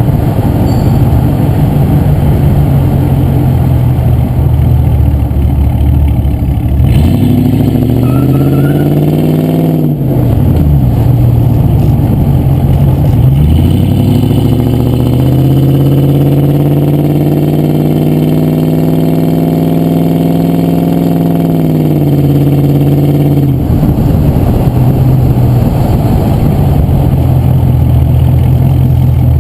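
Range Rover P38's 4.6-litre V8 engine idling, then revved: a short rise in revs about seven seconds in that falls back, then a longer climb held at higher revs for several seconds before dropping back to idle a few seconds before the end.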